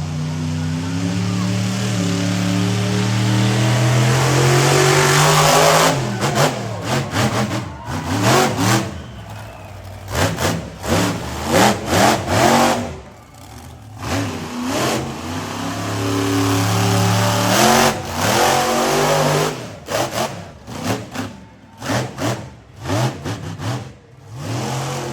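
Monster truck engine revving hard, climbing for about six seconds, then a run of short, sharp throttle bursts with brief drops between them.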